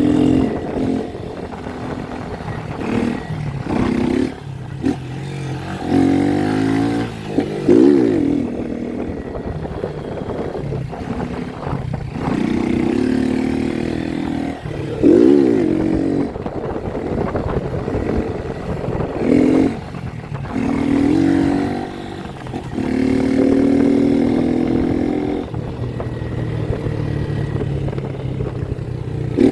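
Honda Titan 160's single-cylinder four-stroke engine running, revved up sharply and eased off several times between stretches of steadier running, the throttle work of wheelie riding.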